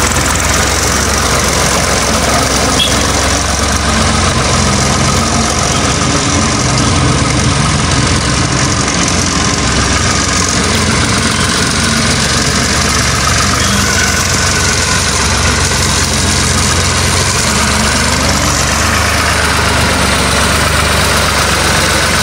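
Case IH JX55T tractor's diesel engine running steadily.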